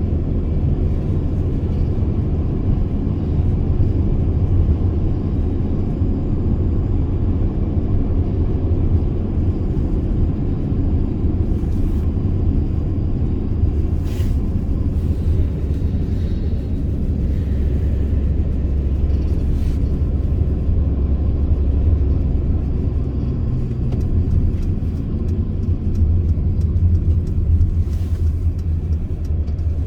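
Mercedes Sprinter V6 van driving: a steady low rumble of engine and road noise.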